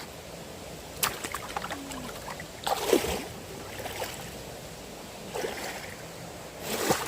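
Water splashing and sloshing a few times, with sharp splashes about 3 seconds in and near the end, over the steady rush of fast-flowing stream water.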